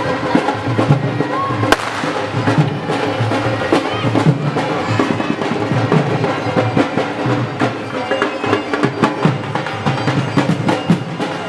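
Loud wedding-band music: dhol drumming with many sharp strokes, mixed with other instruments and voices.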